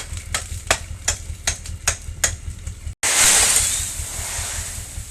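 Dump truck's diesel engine idling with a steady low rumble, over a run of sharp clicks about three a second. About three seconds in comes a loud rushing hiss that fades over a second or two.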